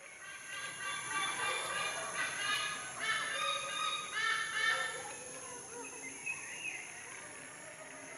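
A bird calling in two quick runs of repeated notes, from about a second in to about five seconds in, then fading to fainter calls.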